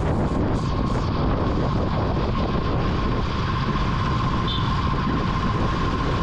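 Vintage Yamaha motorcycle running at a steady pace while riding, with a steady low rumble and wind buffeting the microphone. A thin steady whine sits over the rumble, and a brief high chirp is heard about four and a half seconds in.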